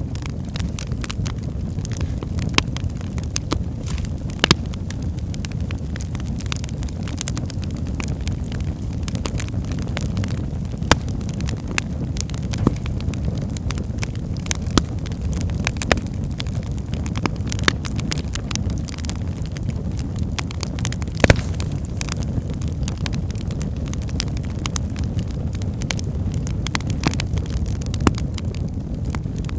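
Wood fire burning in a fireplace: a steady low rumble of flames with frequent irregular crackles and pops from the burning logs, a few louder sharp pops among them.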